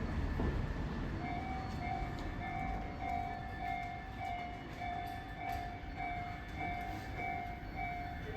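Tobu 8000 series electric train rumbling low as it pulls into the station. From about a second in, a repeating electronic warning tone pulses steadily, about one and a half times a second.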